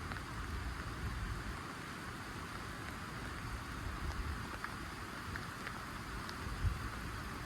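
Light rain falling steadily, with a few faint drop ticks and a soft low thump near the end.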